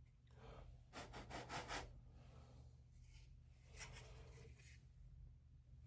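Near silence with a low steady hum, broken twice by brief faint scratching and rubbing, about a second in and again about four seconds in, from hands handling a small glued model frame.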